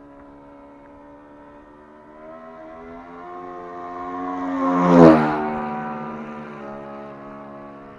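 ASP 61 four-stroke glow engine of a model Decathlon plane making a low fly-by pass: the engine tone grows louder, peaks about five seconds in with its pitch dropping as it goes past, then fades away.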